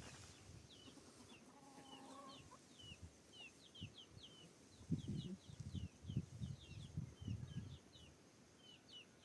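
Chickens: low, short clucks bunched in the middle, over a steady run of short, high peeps several times a second.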